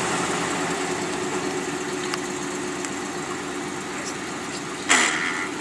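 Jeep Grand Cherokee engine idling steadily with a constant hum, then a brief louder burst of sound about five seconds in.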